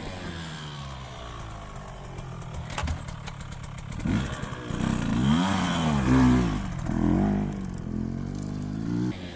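Two-stroke motocross bike engine, a KTM SX 125 single, running at moderate level, then revving up and down in a quick series of rising and falling blips through the second half.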